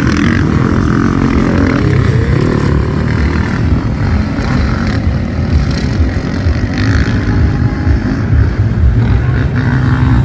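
Motocross bike engines running, loud and continuous.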